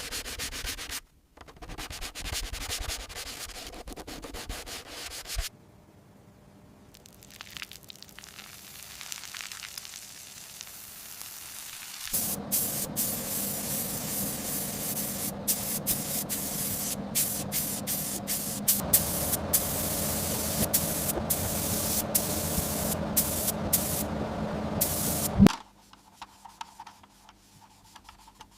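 A run of hand-work sounds: rough rubbing or scraping strokes, then a long steady hiss with a low hum under it that cuts off suddenly near the end.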